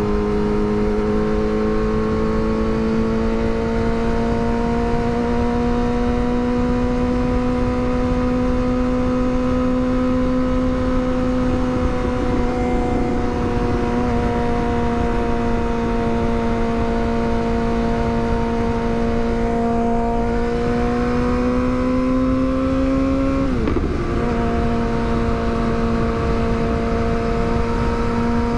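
Yamaha R6's inline-four engine running at steady cruising revs, its pitch creeping slowly up, then dipping sharply and settling a little lower near the end as it changes up a gear. Steady wind rush on the microphone underneath.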